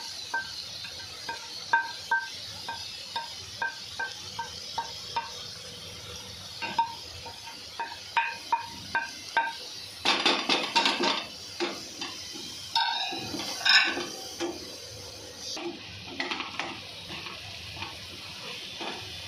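Onion and spice masala frying in oil in a non-stick pan with a steady sizzle, while a wooden spatula stirs it. Light knocks of the spatula come about twice a second in the first half, then louder scraping bursts of stirring around the middle.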